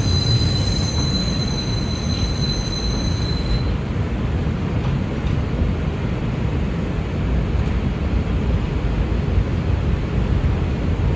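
R142 subway train running, its wheels squealing in thin high tones that stop about four seconds in, leaving the steady low rumble of the wheels on the track.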